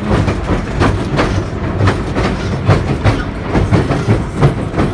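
Small narrow-gauge electric pier train running, its wheels clattering over the rail joints in a quick, uneven series of clicks over a steady low rumble.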